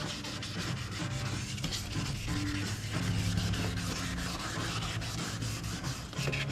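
Background music with a stepping bass line, over a steady scratchy rubbing of many fast strokes, like hand-scuffing a bumper with sandpaper.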